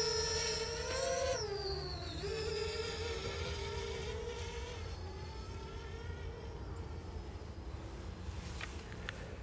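Parrot Bebop 2 quadcopter's motors and propellers whining in flight, a buzzing hum whose pitch dips about two seconds in and then holds fairly steady, slowly growing fainter.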